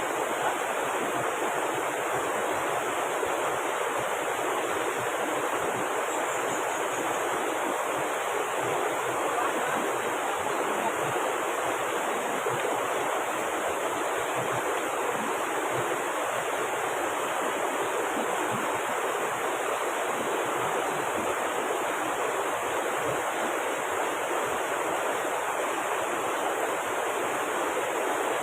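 Steady, unbroken rush of water from the swollen river beside the camp, with heavy rain falling.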